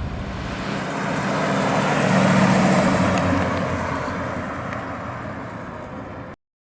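A 1964 Chevrolet El Camino's 327 V8 driving past, its engine and road noise building to a peak about two and a half seconds in and then fading away. The sound cuts off abruptly near the end.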